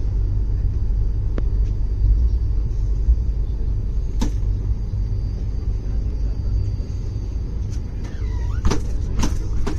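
Indian Railways passenger train rolling past close by, a steady low rumble, with sharp metallic clacks about four seconds in and several more near the end.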